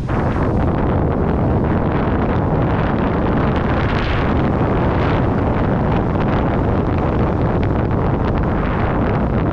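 Wind buffeting the microphone of a camera carried down a ski slope at speed: a loud, steady rush with a heavy low rumble.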